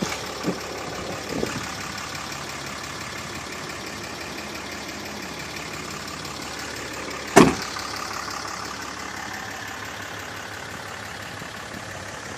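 2008 Dodge Ram 2500's 6.7 L Cummins inline-six turbo diesel idling steadily, with a few light clicks early on and one sharp loud thud about seven seconds in.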